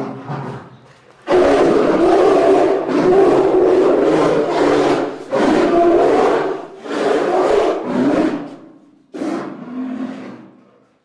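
A large animal roaring in a series of loud, rough calls: one long roar of about four seconds, then three shorter ones.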